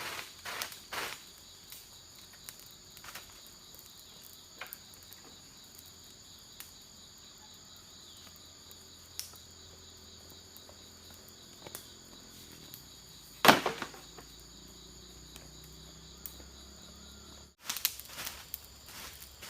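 A steady, high-pitched chorus of insects trilling in forest, cut off abruptly near the end. Scattered sharp knocks and clicks occur throughout, the loudest one about two-thirds of the way through, with a quick cluster of them after the chorus stops.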